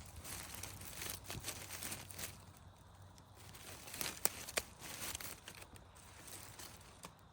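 Irregular crinkling and rustling, busiest in the first two seconds, with two sharp clicks a little after four seconds in.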